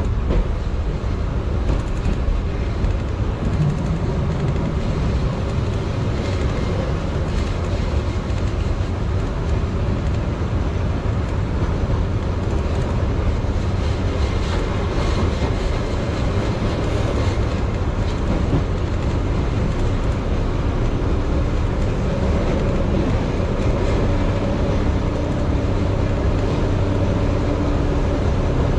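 Keihan Ishiyama-Sakamoto Line electric train running at speed, heard from inside the front of the car: a steady rumble of wheels on rail. A low steady tone joins about twenty seconds in.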